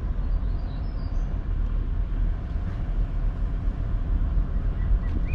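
Vehicle driving along: a steady low rumble of engine and road noise.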